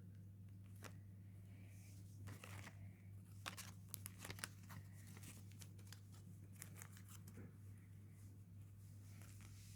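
Faint crinkling and tearing of a foil Pokémon booster pack being handled, with a cluster of sharper crackles in the middle, over a steady low hum.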